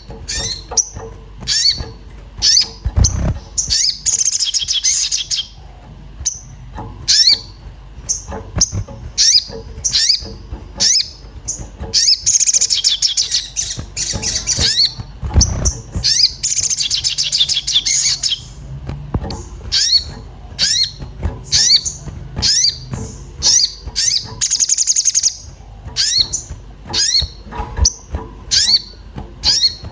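Little spiderhunter (sogon) in an agitated state, giving sharp, high chirping calls about once or twice a second. Several fast high trills, each a second or two long, break into the calling.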